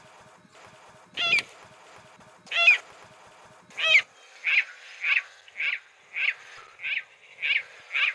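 Spotted rail (saracura carijó) calling: loud, shrill calls repeated about every second and a half over a low, fast pulsing, then from about four seconds in a series of shorter calls about twice a second.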